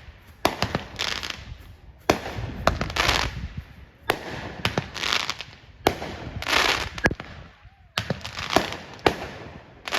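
Fireworks going off in quick succession: sharp bangs, each followed by about a second of crackling, coming every two seconds or so.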